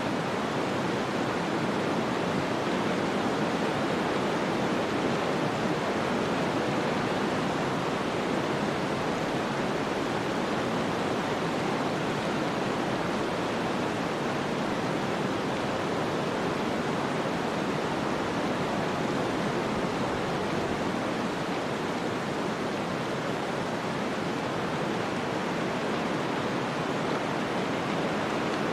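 Snowstorm ambience: a steady, even rush of wind noise with no distinct gusts or other sounds.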